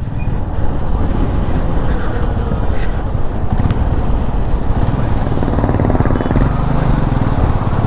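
Royal Enfield Classic 350 single-cylinder engine running steadily at cruising speed, heard from the rider's seat, with wind rushing over the microphone.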